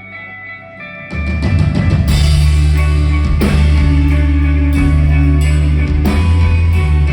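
Rock band playing live: a quiet passage of sustained guitar notes, then about a second in the full band comes in loud with drums, cymbals, guitars and bass.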